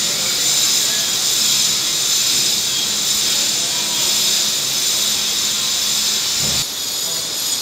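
Steady, loud hiss of rain falling, with a short low bump about six and a half seconds in, after which the hiss is a little quieter.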